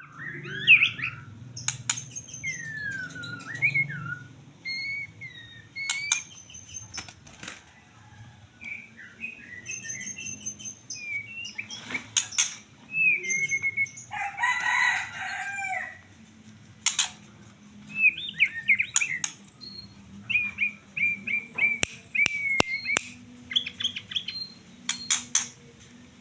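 White-rumped shama (murai batu) singing a long, varied song of whistled phrases, slurred up-and-down notes and quick clicks and trills, with short pauses between phrases.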